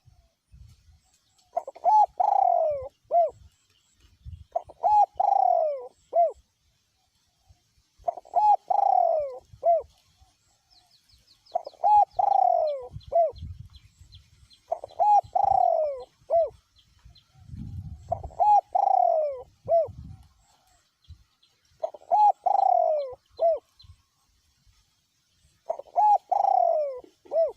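Male spotted dove cooing: a short phrase of descending coos ending on a clipped final note, repeated eight times at about three-and-a-half-second intervals.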